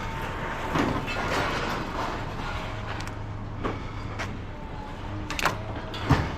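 A vehicle engine running steadily amid scrapyard noise: scraping and rattling, with two sharp metal knocks about five and a half and six seconds in.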